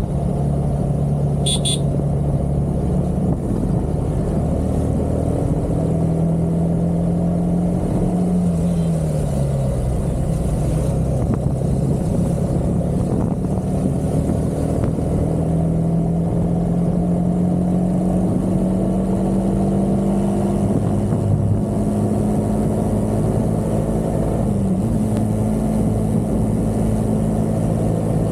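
Motor vehicle engine running under way with steady road rumble. Its pitch climbs slowly, falls once about eight seconds in, climbs again, and dips briefly near the end.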